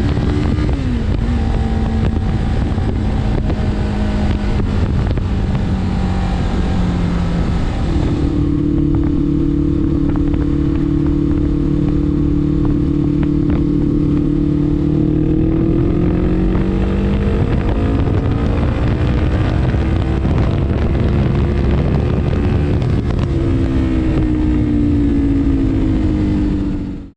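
Suzuki GS500E's air-cooled parallel-twin engine running through an aftermarket Leo Vince GP Pro exhaust, its pitch holding steady for stretches and then falling and rising again. The sound changes abruptly about eight seconds in.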